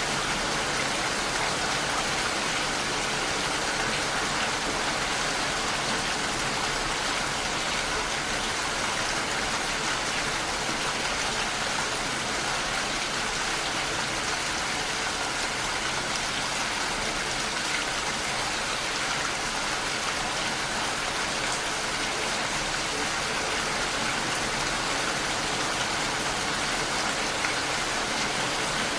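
Steady rain pattering against a window pane: an even hiss of many fine drops that holds at one level throughout.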